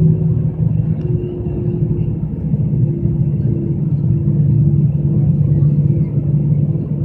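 Cabin noise of an Airbus A320: the engines make a steady low rumble with a constant hum that dips slightly in the first second, then holds.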